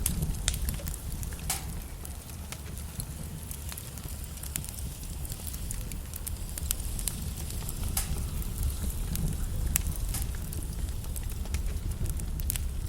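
Logs burning in a fireplace: irregular sharp crackles and pops over a steady low rumble of the flames.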